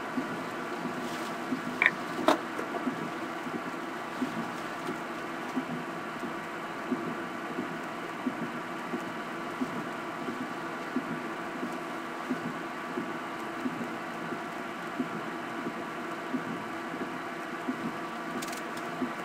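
Steady hum of an idling vehicle heard from inside the cabin, with faint, evenly spaced ticks and two sharp clicks about two seconds in.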